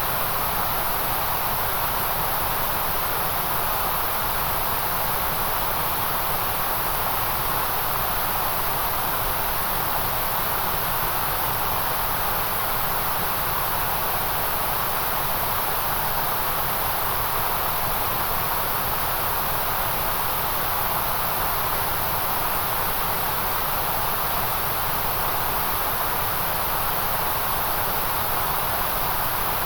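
Steady, unchanging white noise: an even hiss with no breaks or events, strongest in the middle and very top of the range.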